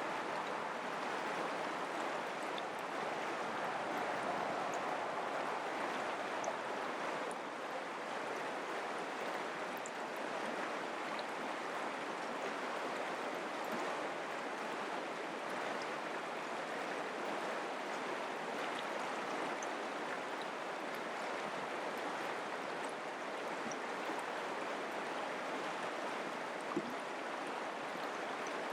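Mountain creek water running steadily, an even rushing without pauses. There is one brief click near the end.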